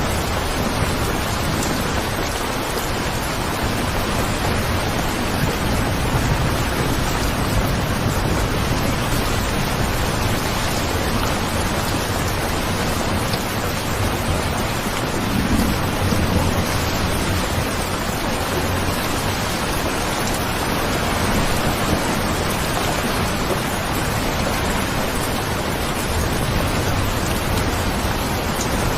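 Steady heavy rain, with low rumbles swelling now and then.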